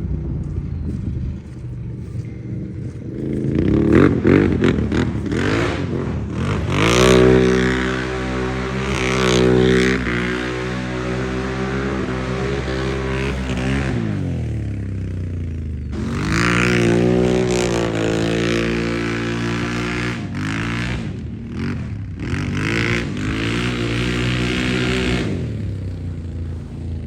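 Engine of a 1000R off-road vehicle fitted with an aftermarket HMF exhaust and a new tune, being ridden. It revs up, holds high for several seconds, drops back, then climbs and falls again a few more times as the throttle is worked.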